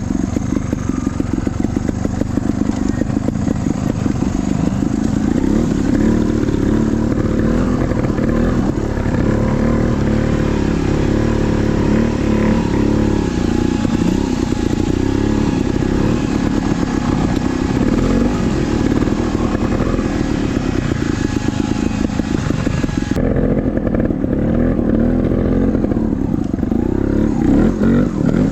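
Trials motorcycle engine running, its pitch rising and falling over and over as the throttle is worked.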